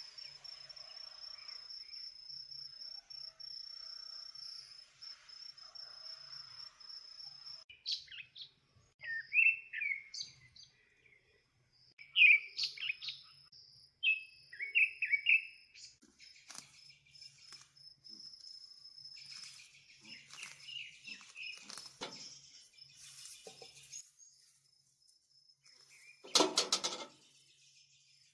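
Small songbirds chirping in short, separate calls, over a steady high trilling insect during the first third. One brief, louder call comes near the end.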